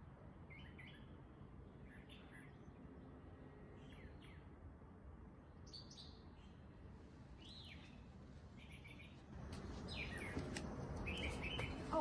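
Small birds chirping in short, separate calls, about one every second or two, a few of them quick falling notes. A low background noise grows louder about nine seconds in.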